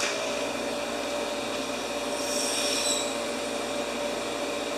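Water running from an outdoor tap into a hose, a steady rushing hiss with a steady hum under it, starting as soon as the tap is turned on; a brief high whistle joins it about two seconds in.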